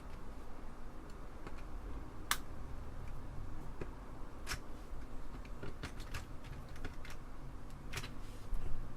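Hand screwdriver driving small screws into an Apple II Plus keyboard assembly: scattered light clicks and ticks of the tool and metal parts, with three sharper clicks.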